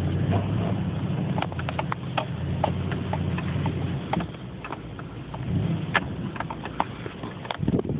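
Nissan Titan pickup's V8 engine running low, dropping back after about two and a half seconds, with many irregular sharp clicks and knocks scattered throughout.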